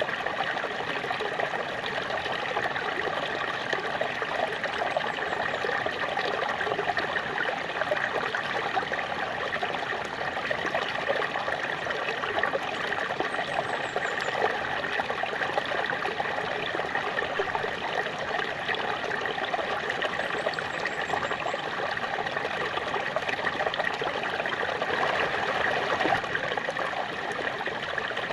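Small waterfall: water splashing and trickling steadily, an even rushing with no breaks.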